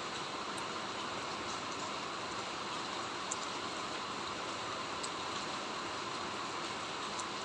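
Steady rain falling, an even hiss with a few separate drops ticking sharply now and then.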